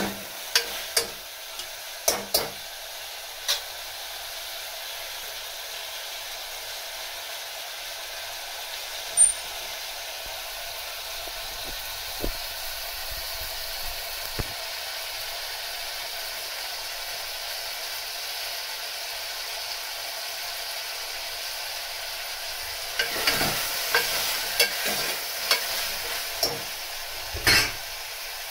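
Chopped vegetables sizzling steadily in hot oil in a pressure cooker pot as they are sautéed. A metal ladle clinks and scrapes against the pot as they are stirred, at the start and again in the last few seconds.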